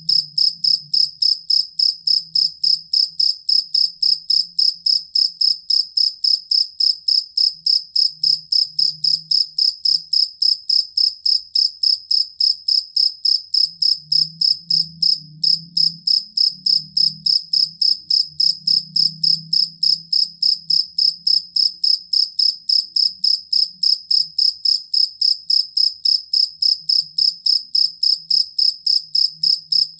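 Field cricket (jangkrik kalung) calling: a steady, unbroken train of short high-pitched chirps, about three to four a second.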